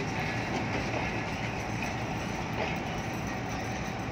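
Passenger train coaches rolling slowly past over station points, steel wheels clacking now and then on rail joints over a steady rumble.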